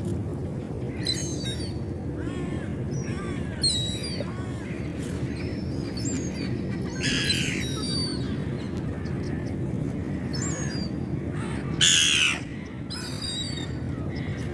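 Seagulls calling: a scatter of short, high squawks and cries, with two louder squawks about seven and twelve seconds in, over a steady low background rumble.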